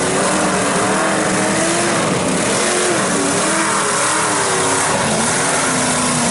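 Big mud truck engine running hard under load, its pitch wavering up and down as the throttle is worked, over a steady wash of mud and tyre noise.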